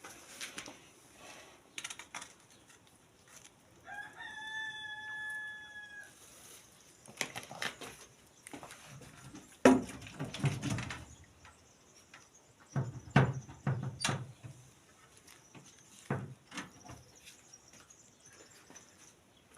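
A rooster crows once, a single long call about four seconds in. Scattered knocks and thumps follow, the loudest about halfway through.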